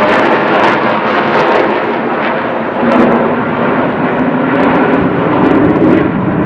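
Aircraft flying past at an air show, its engine noise loud and steady, with a deeper tone coming in about halfway through.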